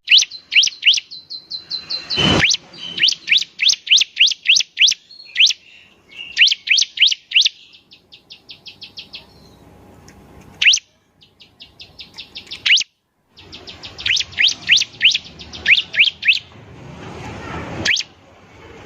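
Bar-winged prinia (ciblek) singing: fast series of sharp rising chirps, in bursts with short pauses between them. There is one low thump about two seconds in.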